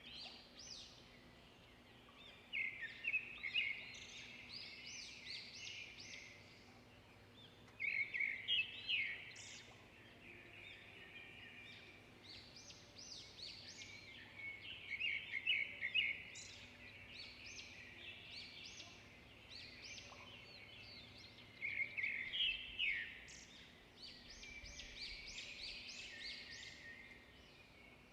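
Wild songbirds singing: bursts of quick, high, chattering notes lasting a couple of seconds each, repeated several times over a faint steady background.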